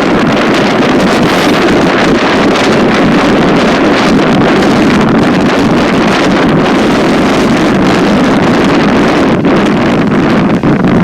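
Freight train rolling past at speed: a steady, loud rumble of wheels on rail, with wind buffeting the microphone.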